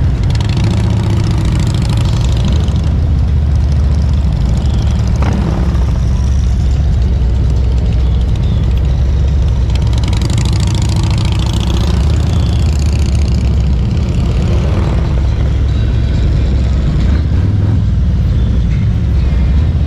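Motorcycle engine running steadily, with a strong low-pitched engine sound throughout and a brief rise in higher-pitched noise about halfway through.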